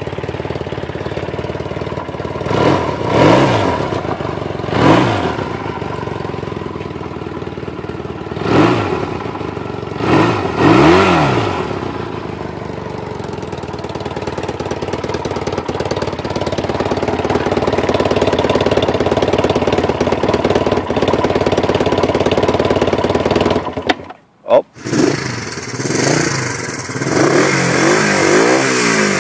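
Honda CL motorcycle engine idling, with four or five quick throttle blips that each rise and fall in pitch, then running more steadily. After a short break about 24 seconds in, the engine is revved again several times.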